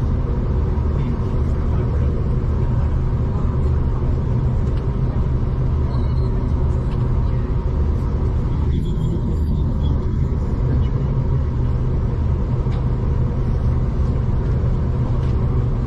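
V/Line passenger train running along the track, heard from inside the carriage as a steady low rumble.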